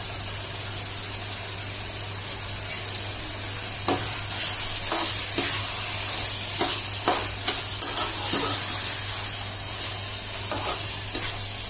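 Spring onions frying in a poppy-seed masala in a metal kadai, with a steady sizzle over a low steady hum. From about four seconds in, a metal spatula stirs the mix, scraping and knocking against the pan several times.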